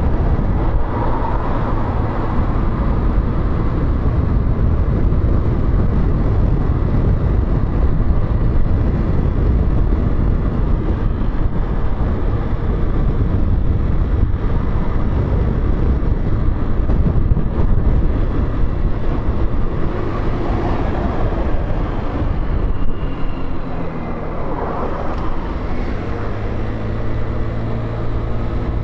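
Motorcycle engine running while riding in city traffic, with heavy wind and road noise. About 24 seconds in the noise eases off and a steady low engine hum is left, as when the bike slows or stops.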